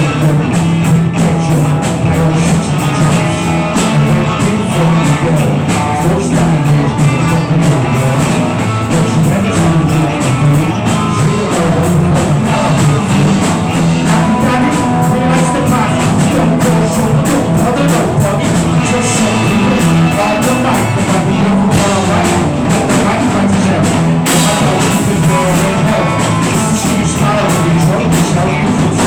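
Rock band playing an improvised piece, loud and continuous, with a steady low bass part.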